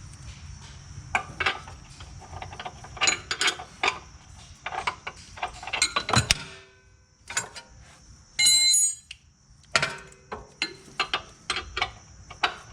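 Hand wrenches clinking and scraping against the nut of a rear sway bar link while different sizes are tried for fit, with many short metallic clicks. About eight and a half seconds in, a tool rings out in a loud metallic clang.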